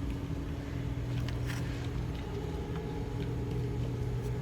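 Steady low hum of an engine or machinery running, its pitch holding even, with a few faint light ticks over it.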